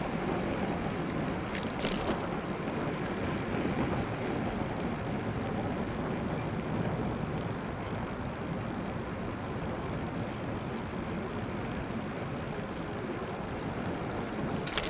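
Steady rolling noise of an e-bike ride, with tyre rumble and wind. There is a brief click about two seconds in.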